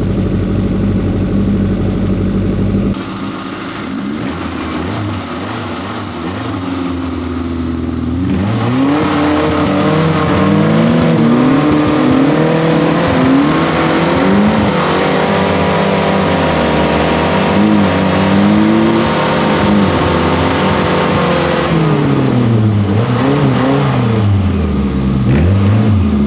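Suzuki 4x4 engine running steadily, then revved hard and repeatedly from about eight seconds in, the pitch rising and falling. It holds high revs for several seconds, drops back, and gets a few more quick revs near the end.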